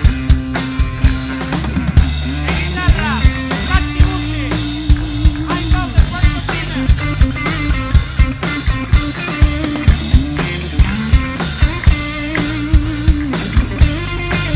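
A rock band playing instrumental music: a drum kit keeps a steady beat under a bass line and a lead instrument with bending notes.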